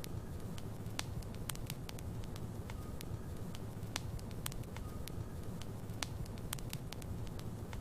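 Logs burning in a fireplace: a steady low rumble of flame with frequent sharp, irregular crackles and pops.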